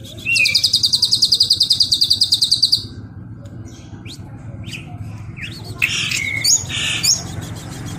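Small songbird calling: a fast, even trill of high notes, about ten a second, lasting some two and a half seconds, then a few sharp chips and short whistled notes near the end.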